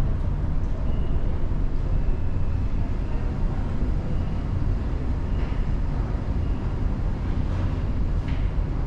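Steady low rumble of a large car ferry's engines and hull heard from inside the ship.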